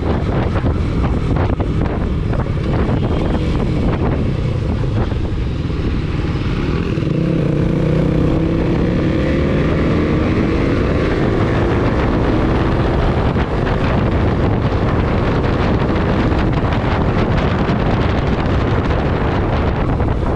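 Suzuki motorcycle riding along, its engine note under heavy wind rumble on the microphone. The engine pitch climbs as it accelerates about a third of the way in, then settles into steady cruising.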